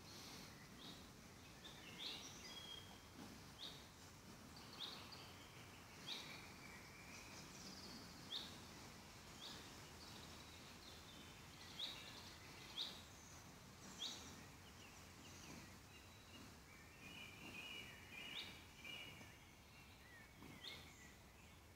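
Faint woodland birdsong over a quiet background hiss: a bird repeats short, sharp, falling call notes every second or two, and a brief twittering phrase comes in about three quarters of the way through.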